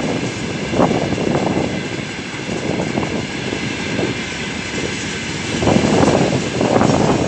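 Freight wagons rolling past: a continuous rumble of steel wheels on the rails, with uneven louder clattering surges as wheelsets pass.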